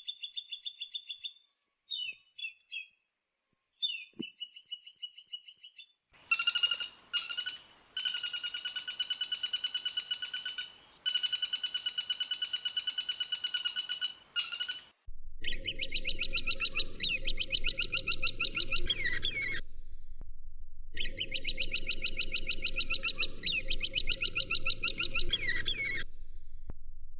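Woodpecker calls: rapid, high-pitched trills repeated in phrases of a few seconds with short gaps between them. In the second half, a low steady hum from the recording runs under the calls.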